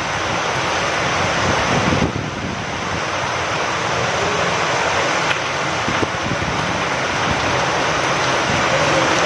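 Steady rain falling with wind, an even, dense hiss.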